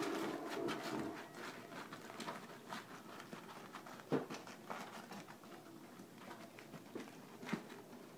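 Aluminium foil crinkling and crackling as hands press and crumple it down over a metal pot, with a louder knock about four seconds in.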